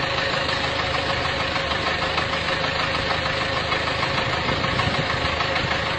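A vehicle's engine idling steadily at an unchanging speed, with a thin steady tone running through it.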